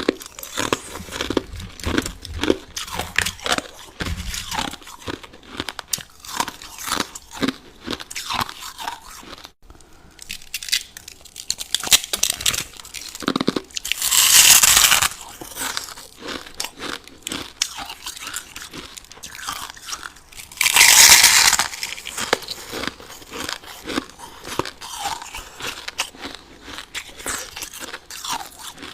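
Crushed ice crunched and chewed close up: rapid, irregular sharp crunches, with two longer, louder crunching rushes, one about halfway through and one about two-thirds in.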